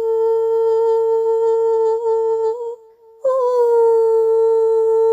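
A woman's voice humming one long, steady high note, with a short break about three seconds in before the same note comes back, sliding down slightly as it settles.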